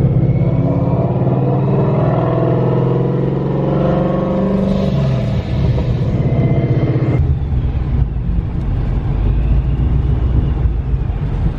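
Boosted 5.0 V8 Mustang running with a steady engine and exhaust note. About seven seconds in it switches suddenly to a deeper rumble.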